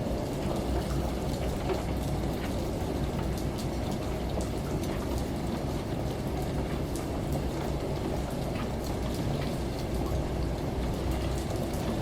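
Steady low hum and rumble of a running washing machine layered with falling water, with many small droplet ticks scattered over it.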